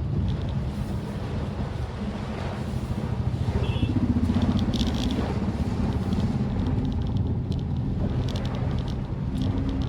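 Maruti Suzuki Swift Dzire on the move: a steady engine and road rumble, with the engine note climbing slightly about four seconds in. Scattered short, crisp ticks sound over it.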